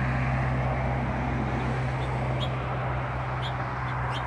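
Steady outdoor background noise with a constant low hum, and a few short high bird chirps in the second half.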